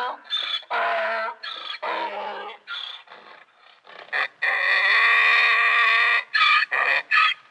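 Donkey braying: a run of hee-haw calls, short repeated blasts at first, then one long held call of about two seconds, and two short calls near the end.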